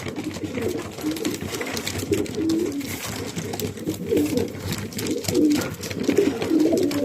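Many racing pigeons cooing together in a loft, overlapping low calls with scattered clicks and wing or foot sounds.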